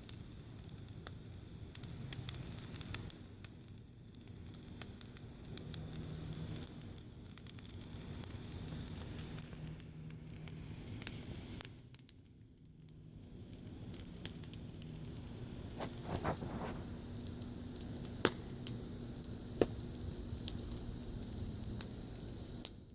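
Fire crackling in a fire stove: a steady hiss with many irregular sharp pops and snaps.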